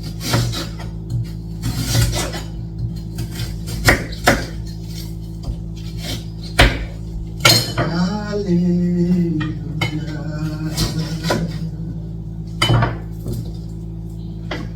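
Metal cooking utensils and cookware clinking and knocking against pots and dishes, in scattered irregular strikes.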